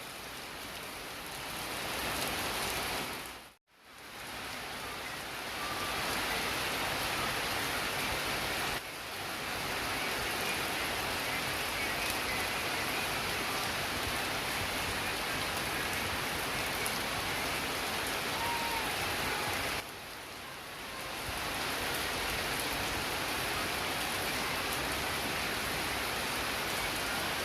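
Steady rain pouring down, an even hiss of falling water. It cuts out completely for a moment about three and a half seconds in, and its level steps up and down abruptly twice later on.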